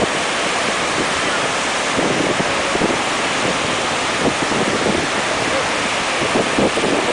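Wind buffeting the microphone over lake surf washing onto a beach: a steady, loud rush with irregular gusts.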